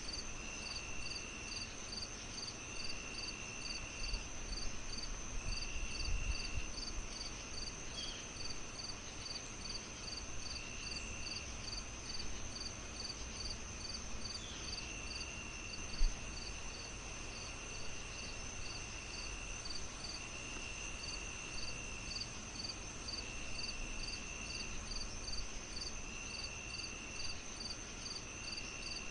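Crickets chirping in an even rhythm of about two to three chirps a second, with a steady high insect trill and lower trills that start and stop every second or two. Under them is a soft low rumble of a fire, and a single soft knock comes about sixteen seconds in.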